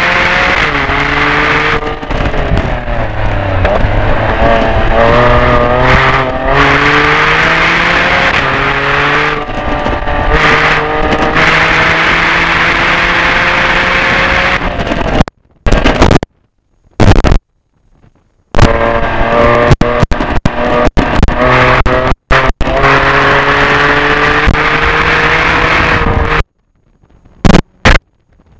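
2009 Porsche Carrera 4S's flat-six engine at high revs, heard from inside the cabin on a race track. Its pitch climbs under hard acceleration and drops again at each shift or lift. In the second half the sound cuts out abruptly to silence several times, for up to about a second at a time, before coming back.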